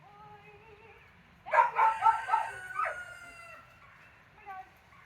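A rooster crowing about a second and a half in: a few quick loud notes and then a long drawn-out final note. Before it there is a fainter, steady drawn-out animal call.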